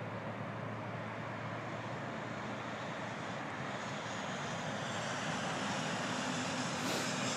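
Freight train rolling by: a steady rumble and wheel noise that grows slowly louder.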